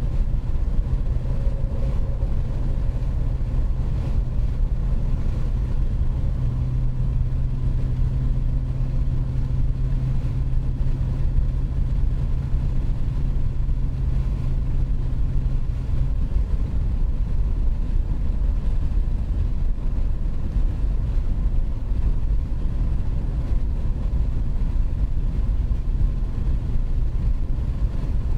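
2019 BMW 540i's B58 3.0-litre turbocharged inline-six with a muffler delete, driving at a steady pace: a continuous low exhaust drone over road and tyre rumble. The steady drone note falls away about halfway through, leaving the rumble.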